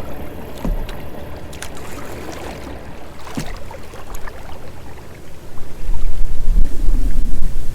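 Creek water moving and splashing around a kayak, with a few light knocks. About six seconds in, a loud low rumble of wind buffeting the microphone starts.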